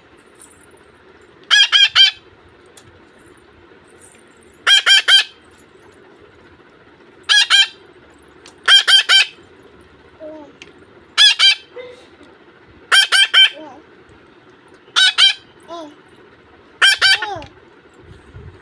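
Month-old parakeet chicks giving harsh begging calls in about eight bursts of three or four quick squawks each, one burst every couple of seconds, with a few softer calls between: hungry chicks begging to be fed.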